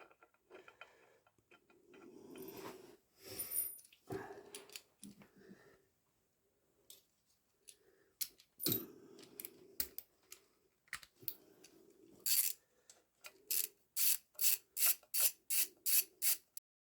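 Motorcycle clutch cover bolts being fitted: scattered light metal clicks and taps as the bolts are set in place, then a hand ratchet clicking in a steady run of about two to three strokes a second over the last few seconds.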